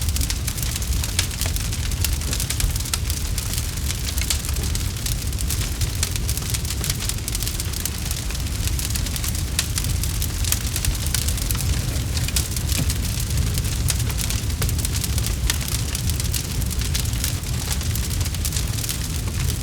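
Campfire crackling: many small, irregular snaps packed close together over a steady low rumble from the burning wood.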